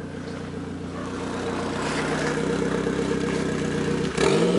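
A car driving up and pulling in, its engine running steadily and growing gradually louder as it nears, with a louder, rising surge about four seconds in.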